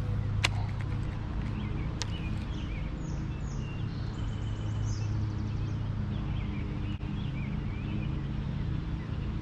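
A steady low mechanical hum with birds chirping over it, and two sharp clicks in the first couple of seconds.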